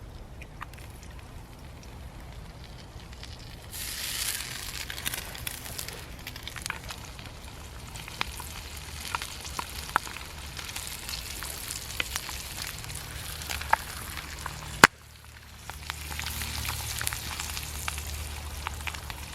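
Food frying in a thin pan over a campfire: a steady sizzle that gets louder about four seconds in, with scattered pops and crackles. A sharp click comes near the end, the sizzle dips briefly, then picks up again.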